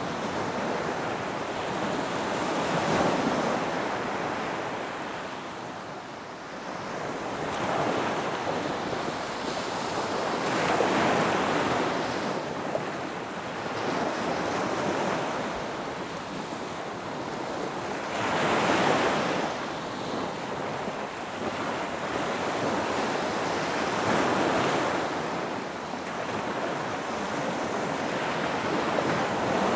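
Ocean surf: waves breaking and washing up on a beach, swelling and fading roughly every five seconds, with the strongest break about two-thirds of the way through.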